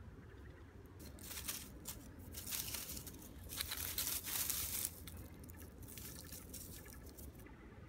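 Irregular crinkling and crackling, as of material being crumpled or torn, most intense from about one to five seconds in, then thinning out.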